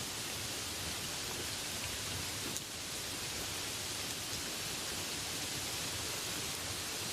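Steady rain falling, an even hiss with no let-up, and a single faint tick of a drop about two and a half seconds in.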